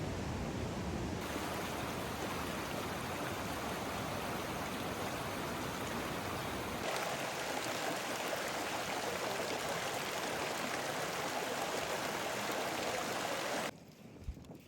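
Steady rushing of running water, changing abruptly in tone twice and cutting off suddenly about a second before the end.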